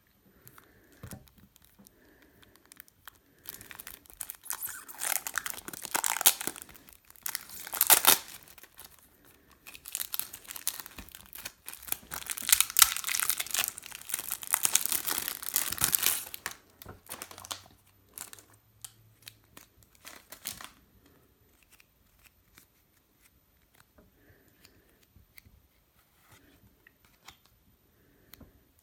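Packaging of a trading-card structure deck being torn open and crinkled for about twelve seconds, a few seconds in. It is followed by scattered light clicks of handling, fading to only occasional small taps.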